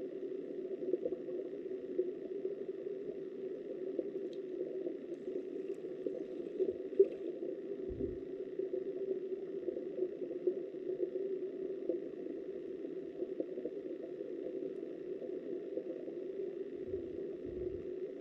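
Flowing river water heard through a submerged underwater camera: a steady, muffled rushing, with light ticks and one sharp tap about seven seconds in.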